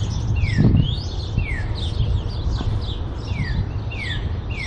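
Songbirds singing: a short downward-sliding whistle repeated over and over, with higher chirps among it, over a steady low rumble.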